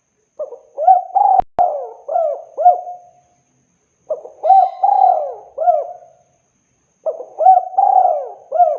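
Spotted dove cooing: three phrases of several short, arched coo notes each, every phrase lasting about two to three seconds with a second or so of silence between them.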